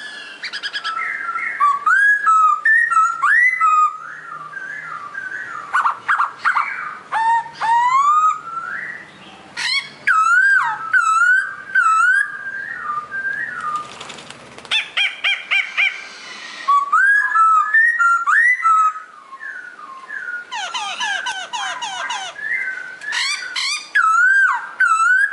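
Pokho songbird singing: a long string of clear whistled phrases that wobble up and down, broken by quick runs of high sweeping notes, with a few short pauses.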